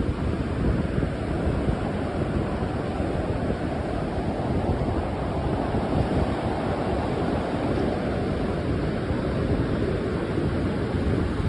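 Wind blowing hard across the microphone, a steady, slightly gusting rush mixed with the sound of ocean surf.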